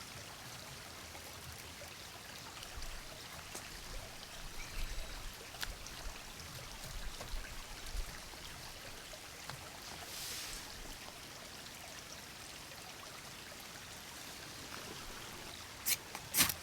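Steady outdoor hiss like running water, with scattered faint rustles and knocks and a brief swish about ten seconds in. A few sharp clicks come near the end.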